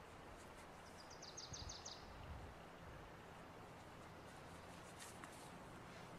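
Near silence with a faint steady hiss. About a second in, a small bird gives a brief high trill of about eight quick notes, and soft low thumps come from the paracord being handled.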